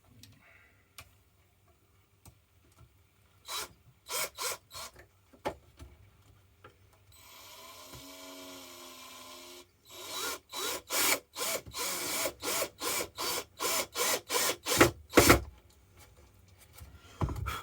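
Hand-tool work on a wooden prop part: a few scraping strokes, then a small power drill running for about two and a half seconds. After it comes a quick run of rasping strokes, about two and a half a second, as the hole is countersunk and a screw driven in.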